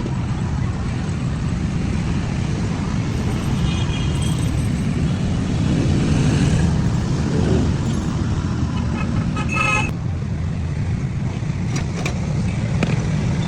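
Steady low rumble of motor traffic passing, with a few short horn toots, one about three seconds in and another near ten seconds.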